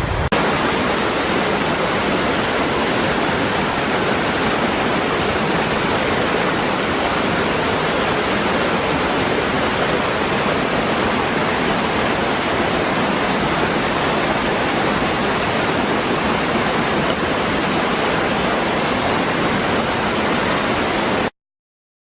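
Waterfall: falling water rushing as one steady, even noise, which cuts off abruptly near the end.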